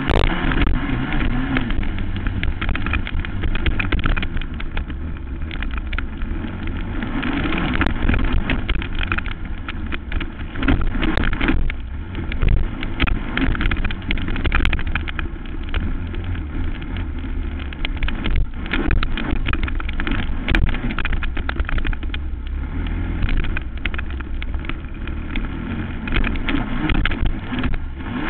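Racing quad's engine running hard, its pitch rising and falling, with many short knocks and rattles through it.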